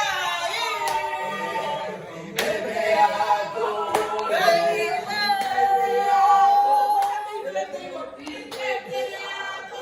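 A group of voices singing without instruments, with long held notes, one about two seconds long near the middle, and a few sharp claps.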